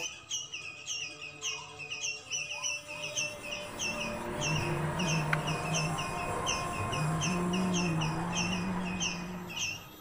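A small bird repeating a short, hooked chirp about three times a second, with a low droning rumble that swells from about four seconds in and fades near the end.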